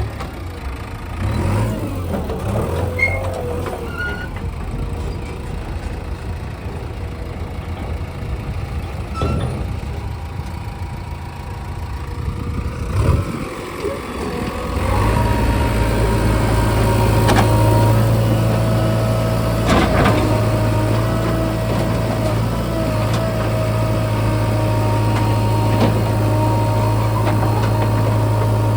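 Heavy diesel engine running unevenly, then rising about halfway through to a louder, steady higher speed that holds, with a few sharp knocks.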